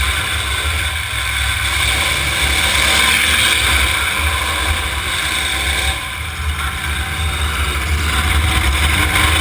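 Several demolition derby cars' engines running and revving together, a continuous loud mechanical din.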